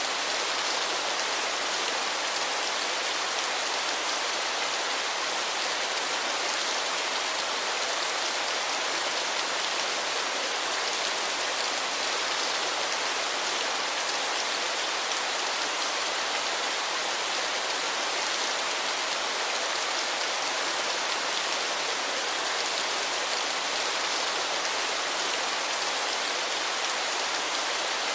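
Waterfall rushing steadily: an even hiss of falling water, strongest in the upper range, with little low rumble and no changes.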